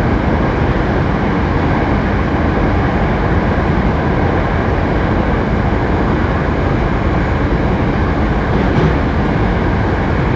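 Interior running sound of a Hankyu 7300 series electric train car, a car known for its unusual running noise: a steady rumble of the wheels on the rails and the running gear, with a faint steady hum underneath.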